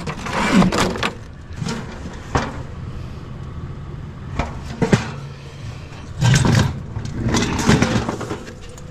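Several knocks and short clatters of metal and plastic items being handled, over a low steady engine hum.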